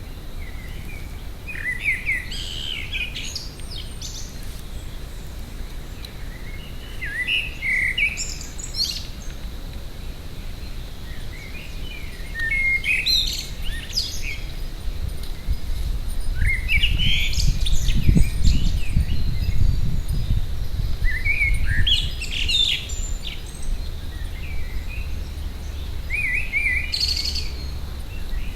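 A songbird singing short, varied phrases about every four to five seconds, six in all. A low rumble runs beneath it and is strongest about halfway through.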